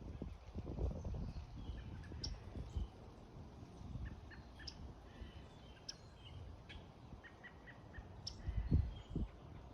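Backyard birds chirping, short scattered calls, over a low rumble, with a few louder low thumps near the end.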